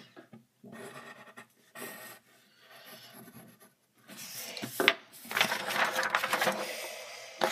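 Drawing strokes scratching on paper: short, faint strokes at first, then longer and louder rubbing strokes from about four seconds in.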